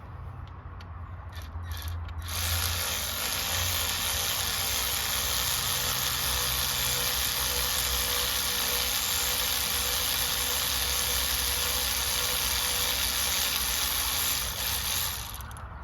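Powered ratchet running steadily for about twelve seconds, starting a couple of seconds in after a few clicks and stopping shortly before the end, spinning out a bolt.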